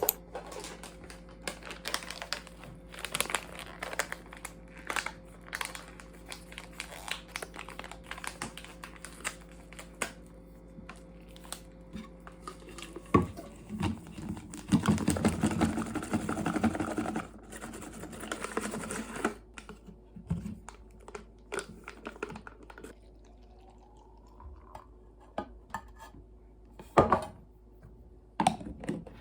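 Typing on a computer keyboard: irregular key clicks, over a steady electrical hum that stops about halfway through. In the middle there is a longer stretch of denser rustling noise.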